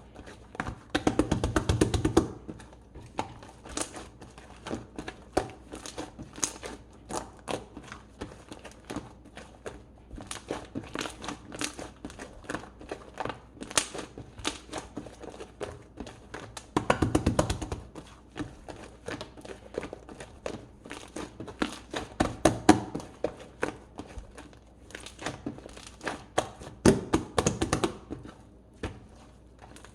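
Slime being squeezed, poked and folded by hand, a continuous run of small sticky clicks and pops with several louder bursts of squishing.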